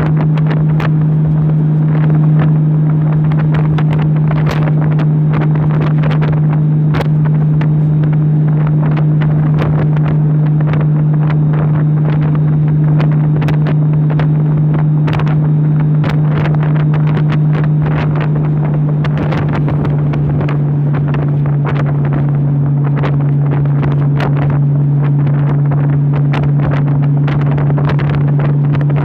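Honda motorcycle engine running steadily at a highway cruise of about 60 mph, its note holding one pitch and easing slightly lower about two-thirds through. Heavy wind rush and buffeting crackle on the microphone sit over it.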